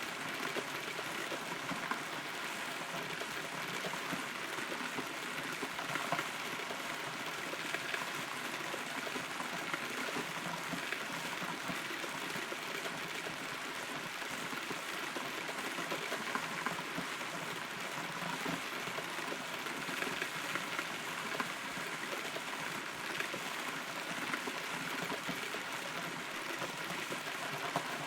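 Steady rain heard from inside a hollow rotten tree, with many scattered single drops landing close by.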